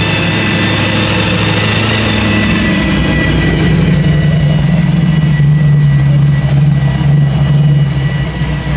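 Supercharged V8 of a 1971 Camaro Z28 running at low speed, a steady low exhaust note with a thin high whine over it, getting louder about four seconds in.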